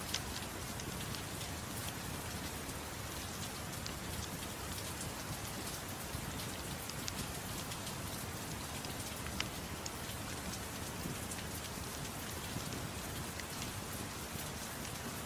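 Steady soft rain, a constant even hiss, with scattered sharp ticks and crackles throughout.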